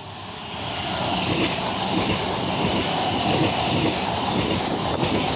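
Electric multiple-unit passenger train passing close by on electrified track, with the noise of wheels on rail. The sound grows during the first second as the train arrives, then stays loud and steady as the carriages run past.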